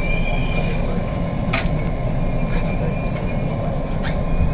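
JR Biwako Line commuter train heard from inside the carriage as it rolls into a station, with a steady rumble of wheels and running gear. A thin high squeal comes and goes, and two sharp clicks sound about two and a half seconds apart.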